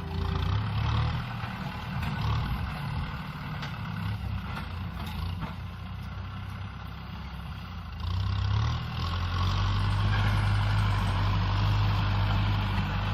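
Kubota M6040 SU tractor's diesel engine running under ploughing load, growing louder and higher in pitch about two-thirds of the way through, then holding steady.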